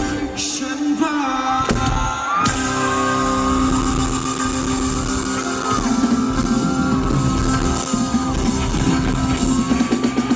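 Live rock band performance of a song: singing with long held notes over electric guitar, bass and drums, in a large space.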